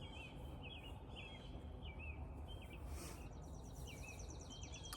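A bird repeating short chirps, roughly two a second, with a fast high trill joining about three seconds in, over a low steady background hiss.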